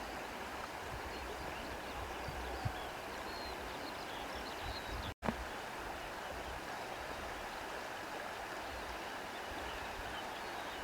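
Outdoor nature ambience: a steady rushing sound with small birds chirping faintly here and there. The sound cuts out for an instant about five seconds in.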